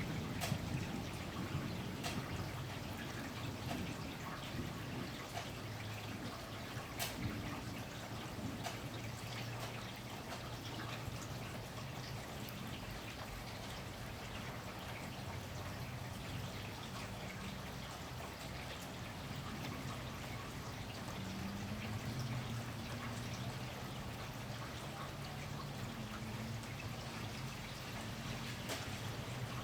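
Steady rain falling, with a few scattered sharp drips standing out.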